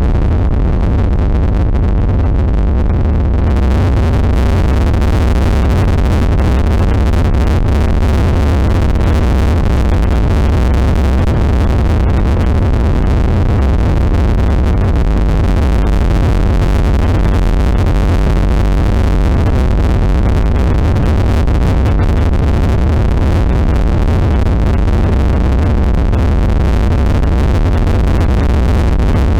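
Loud, dense synthesized noise drone from an experimental ambient track: a heavy low rumble under a steady wash of harsh noise, with more hiss coming in about three seconds in.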